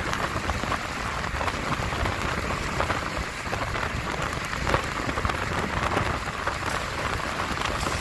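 Steady rain falling and hitting surfaces, a dense crackle of drops over an even hiss.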